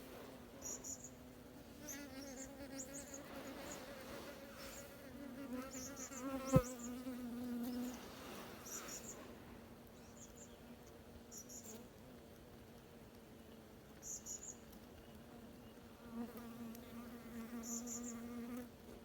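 Bees buzzing inside an underground nest: a steady droning hum that swells and fades, with one sharp click about six and a half seconds in.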